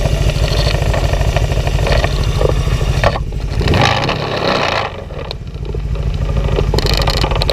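Yamaha XS400 cafe racer's parallel-twin engine running with a steady low exhaust beat. About three seconds in, a rush of noise comes in and the beat drops away briefly, then the engine comes back.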